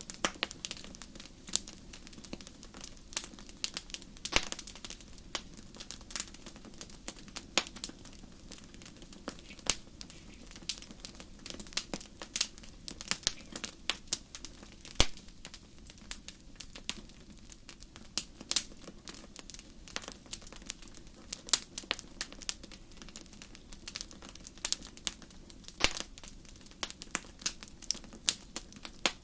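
Wood fire burning in a fireplace: irregular sharp crackles and pops from the burning logs over a low, steady hiss of the flames.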